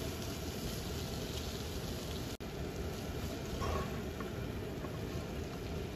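Chilli and dried-shrimp sambal paste sizzling steadily in oil in a non-stick frying pan as a plastic spatula stirs and pushes it around. The paste is being fried down until fairly dry. The sound drops out for an instant about two and a half seconds in.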